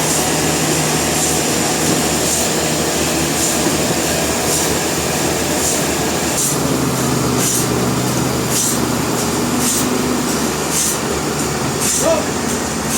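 Sawmill saw running through a large hardwood log: a steady loud machine noise with a soft high tick about once a second. The hum drops in pitch about halfway through, and there is a brief squeal near the end.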